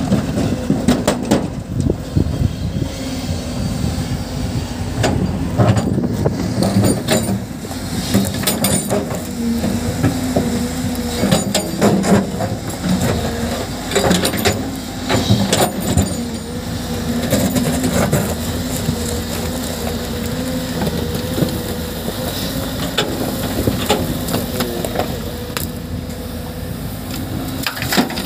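Excavator's diesel engine running under load, its pitch wavering as it works, with frequent irregular knocks and clanks of rock and metal.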